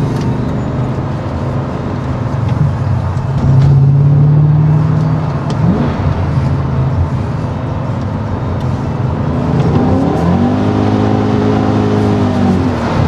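BMW M5 engine and Britalman aftermarket exhaust heard from inside the cabin, running steadily with a louder stretch around four seconds in. About ten seconds in the engine note climbs, holds for a couple of seconds, then drops back near the end.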